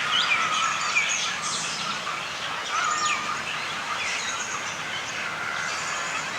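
Several birds chirping and calling at once, short overlapping chirps and whistles over a steady hiss of background noise.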